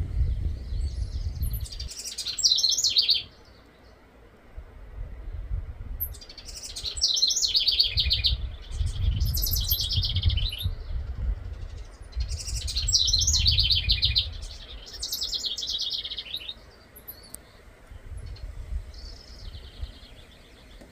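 A songbird singing several phrases of rapid repeated high notes, separated by short pauses, over a low rumble.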